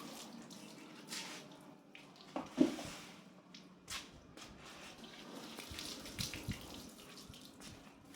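Water running and splashing, with scattered light knocks and one louder knock about two and a half seconds in.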